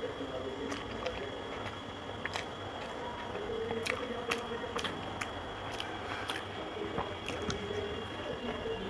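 Close-up eating sounds of a person chewing and biting a curried boiled egg by hand: many short wet clicks and lip smacks, over a faint steady hum.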